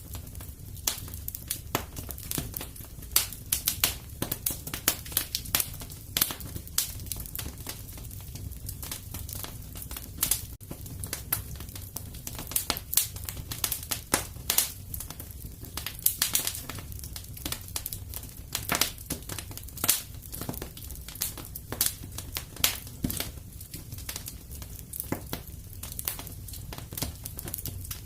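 Fire in a fireplace crackling, with irregular sharp pops over a steady low rumble.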